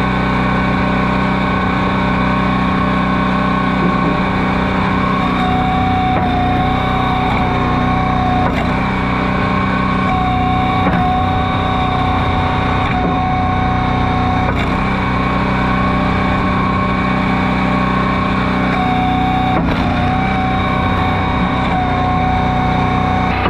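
Log splitter's engine running steadily, with a higher whine that comes and goes several times.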